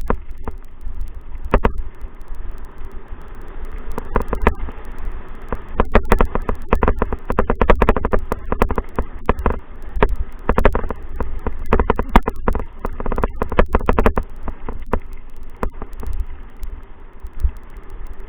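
Wind rumbling on the microphone, with a dense run of sharp rattling clicks and knocks through the middle that thins out near the end.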